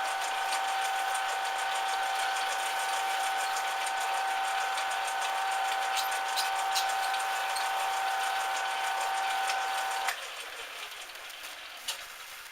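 Metal lathe running with a steady whine, then switched off about ten seconds in, the sound dropping away sharply; a single click comes near the end.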